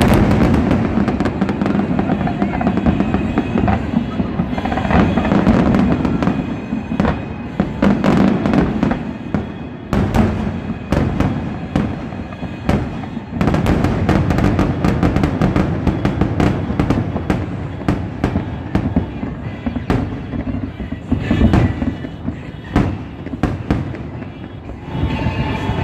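Loud fireworks display: many aerial shells bursting in quick, overlapping succession, with booms and crackles and hardly a pause.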